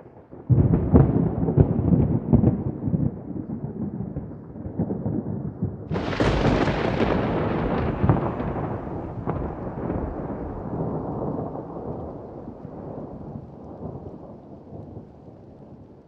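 Thunder: a sudden rumbling peal with crackles about half a second in, then a second, sharper crack about six seconds in that rolls on and fades away slowly.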